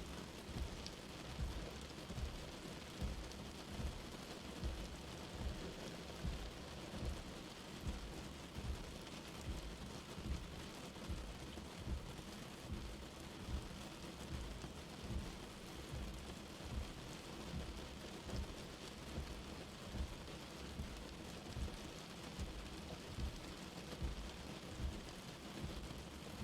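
Light rain falling steadily, an even hiss of drops, with soft low thumps recurring about once a second underneath.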